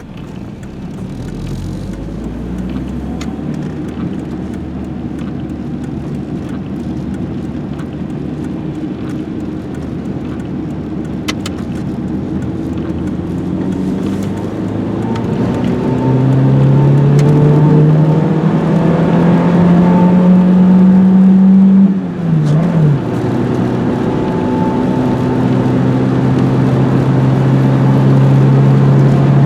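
Renault 21 GTS's 1.7-litre carburetted four-cylinder engine pulling the car along, its pitch slowly climbing as it gains speed. About two-thirds of the way through it breaks off briefly for a gear change, then runs on steady and louder.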